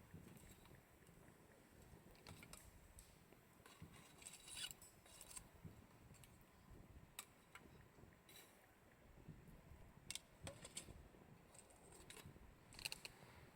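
Campfire burning faintly, with scattered, irregular pops and snaps of the burning wood.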